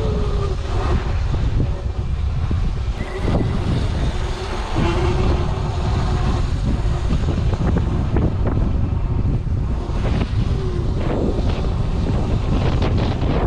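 Wind buffeting the microphone of a moving electric dirt bike, with a faint motor whine that rises and falls and scattered knocks from the bumpy trail.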